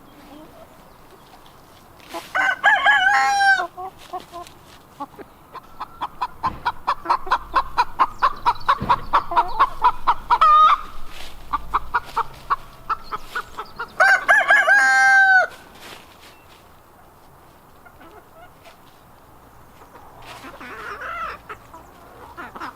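Rooster crowing twice, about two seconds in and again about fourteen seconds in. Between the crows a hen cackles, a fast run of about five clucks a second for some five seconds that ends in a higher drawn-out note.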